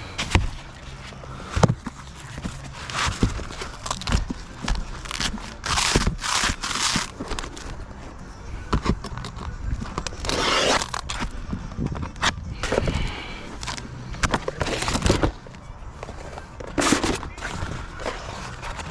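Roof repair work: irregular sharp cracks and knocks with several longer scraping, tearing bursts, as shingles and material are worked loose and handled.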